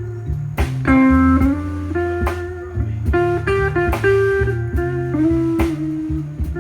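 Live blues band playing an instrumental guitar solo. The lead guitar holds and bends notes over a walking bass line and steady drum hits.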